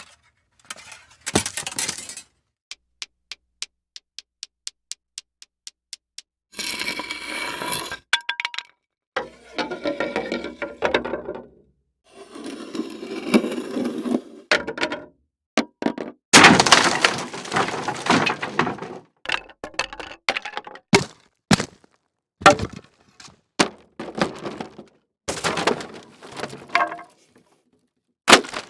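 A series of separate impact and breaking sound effects with short gaps between them. First comes a quick run of sharp clicks, then several longer crashing, cracking breaks of a few seconds each, then a string of short sharp hits.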